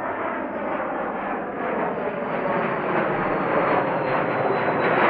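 Airplane engine noise close by, growing steadily louder, with a faint high whine sliding slowly down in pitch.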